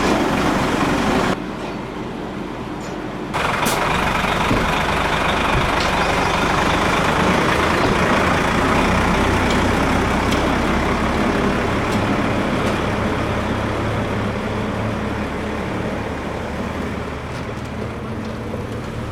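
Large truck engine running steadily, with a sudden dip in level for about two seconds near the start.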